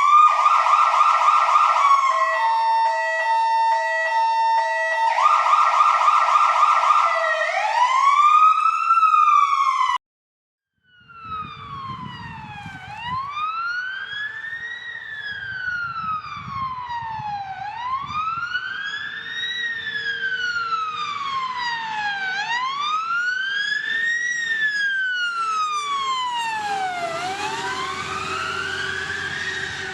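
Emergency-vehicle sirens. First, an electronic siren switches between rapid yelp sweeps and a stepped tone pattern, then rises in a wail and cuts off abruptly about ten seconds in. After about a second of silence, a wail siren rises and falls slowly, about every five seconds, over a low rumble, and a second siren pattern joins in near the end.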